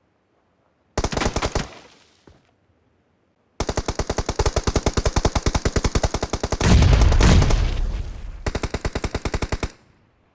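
Video game automatic gunfire: a short burst about a second in, then a long run of rapid shots from about three and a half seconds until near the end. About two-thirds of the way through comes a louder, deeper stretch with a heavy boom.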